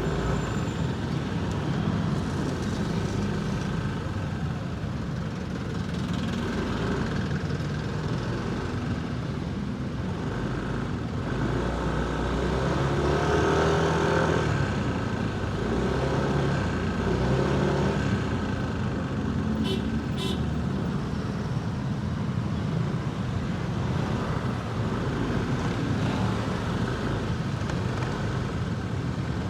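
Motorcycle engine and surrounding road traffic heard from the rider's own bike in slow, congested city traffic. The engine note rises and falls a few times midway as the bike pulls ahead and eases off.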